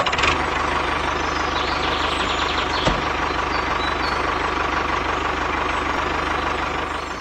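Small engine running steadily, with a fast even low pulsing and a steady hum.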